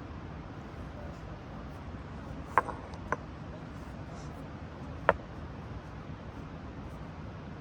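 Three short sharp snaps or knocks, two close together about two and a half seconds in and one about five seconds in, over a steady low background rumble.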